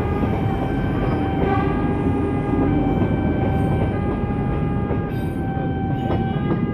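Prameks multiple-unit commuter train passing close by at low speed, a continuous rumble of wheels and running gear with a steady high whine over it.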